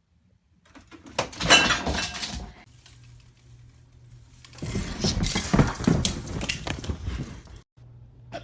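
Two loud stretches of clattering and crashing, like objects being knocked over, with a low steady hum in between.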